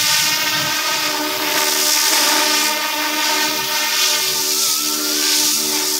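Battery-electric YU XIANG F11-S scale Apache RC helicopter in flight: a steady motor whine made of several tones, with some of the pitches shifting slightly, over the hiss of the spinning rotors.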